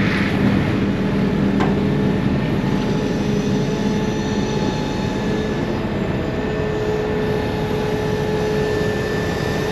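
Heavy diesel machinery engine running steadily at constant speed: a continuous drone with a faint, steady whine.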